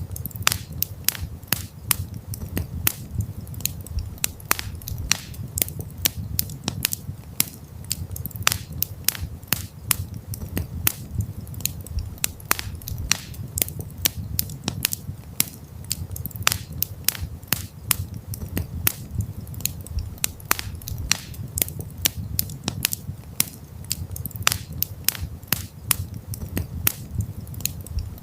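Wood campfire crackling: dense, irregular sharp pops and snaps, several a second, over a low steady rumble of the burning fire.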